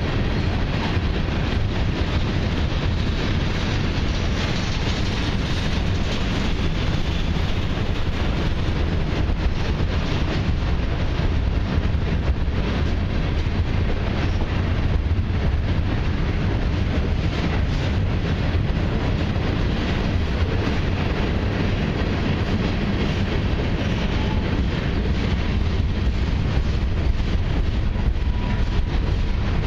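Covered hopper cars of a cement freight train rolling past: a steady rumble of steel wheels on the rails.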